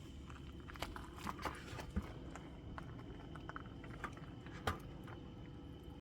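Scattered light clicks and taps at an irregular pace, with a sharper knock about two seconds in and another near the end, over a faint steady high tone.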